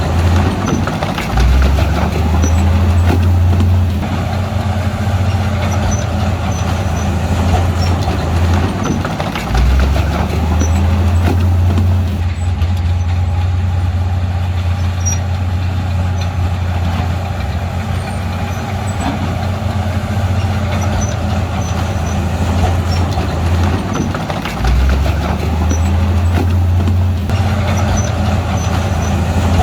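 Bulldozer's diesel engine working, a loud steady low drone that steps up and down in pitch a few times.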